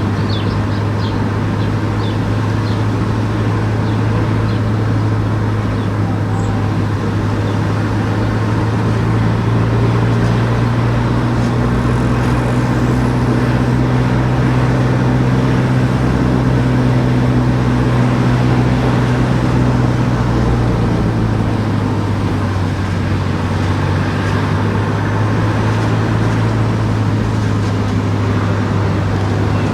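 A car driving along town streets: steady engine hum and tyre and road noise. Partway through, the engine note rises a little and then settles back. A few faint bird chirps come near the start.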